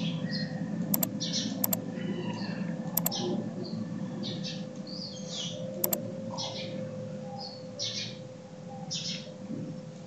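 Small birds chirping in the background, with four sharp computer-mouse clicks over a steady electrical hum.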